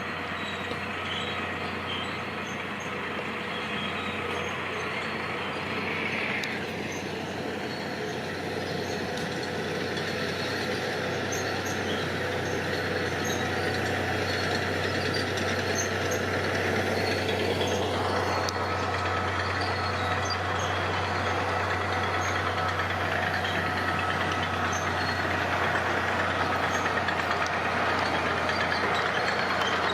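Heavy construction machinery engine running steadily with a constant low hum, growing slowly louder.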